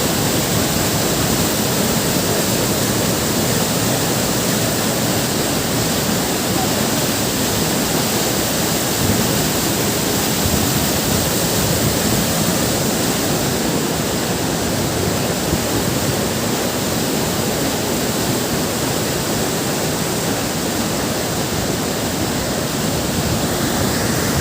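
Waterfall's falling water making a steady, unbroken rush that fills the whole range from low to high.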